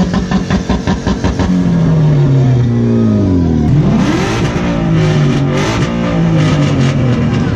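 Turbocharged four-cylinder engines of two Mitsubishi Lancer Evolutions revving as the cars pull away one after the other. There is a rapid sputtering pulse at the start and a falling engine note, then a sharp rev about four seconds in with a crackle from the exhaust after it.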